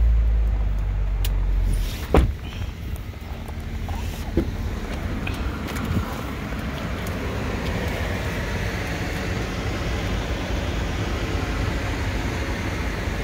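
Steady hum of the remote-started 2016 Chevrolet Tahoe's V8 idling. A single sharp thud about two seconds in, and a lighter knock a couple of seconds later.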